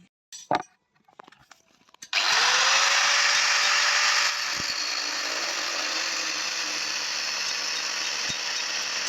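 An electric power tool switches on about two seconds in and runs steadily, its motor tone rising quickly and then holding; it is louder for the first two seconds, then settles a little quieter. Before it, a couple of short clinks.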